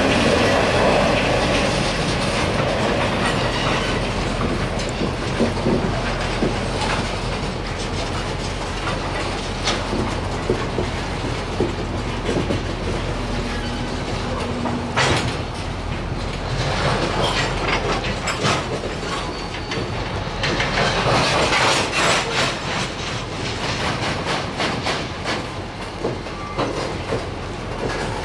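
Loaded tank cars of a CSX freight train rolling past, steel wheels clattering over the rail joints with a steady rumble and many sharp clicks and clacks, a little louder about two-thirds of the way through.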